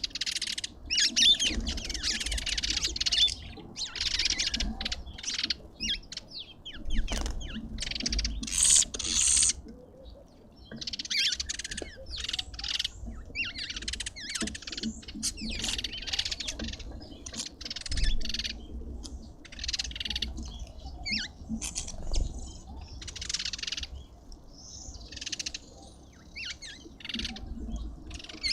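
Birds at a feeder chirping and chattering in busy, overlapping bursts, with short lulls between them.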